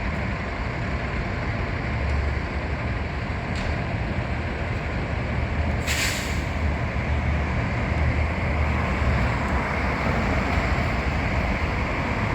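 Fire engine's diesel engine running with a steady low rumble, and a short air-brake hiss about six seconds in.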